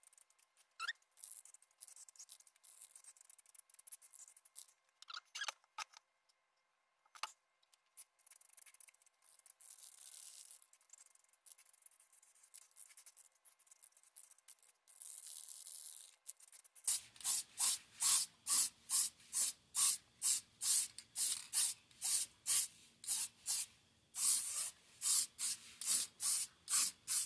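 Aerosol spray can of clear coat hissing in short bursts with scattered clicks. About two-thirds of the way in, this gives way to a fast, regular series of short, sharp pulses, about two or three a second.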